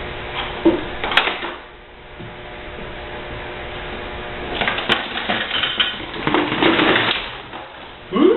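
Hard parts clinking and rattling as a dishwasher is being taken apart: a few sharp clicks about a second in, then a longer spell of clattering from about four and a half to seven seconds.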